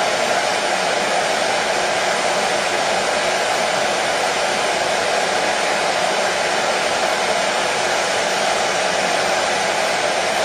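Hair dryer running steadily: a constant, even rush of fan and airflow with no change in pitch or level.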